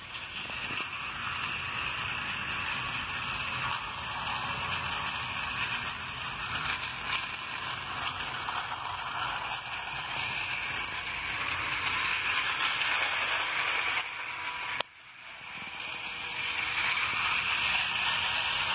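Tyco HO-scale model train, double-headed with two locomotives, running along the track with a steady mechanical whirring rattle of motors, gears and wheels on rail joints. The sound drops off sharply about fifteen seconds in, then builds back up.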